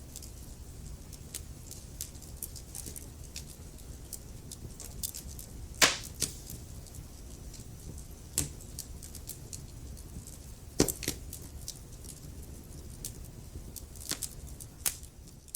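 Wood fire burning in a fireplace: steady crackling over a low rumble of the flames, with several louder sharp pops from the burning wood, the loudest about six seconds in.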